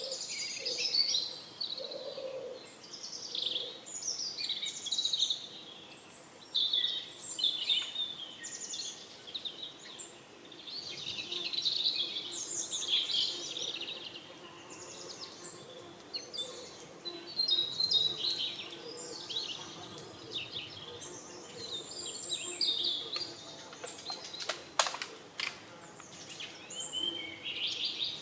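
A chorus of small birds chirping and twittering, many short overlapping calls, with a few lower calls near the start. A single sharp click about 25 seconds in.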